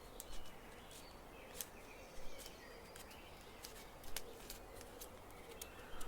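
A sheet of Kami origami paper being handled and creased by hand. It gives a few short, crisp crinkles, about five in six seconds, over a faint steady hiss.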